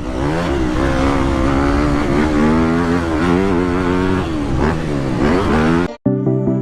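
Motocross dirt bike engines revving up and down as they ride the track. Near the end the sound cuts off abruptly and electronic music with a steady beat starts.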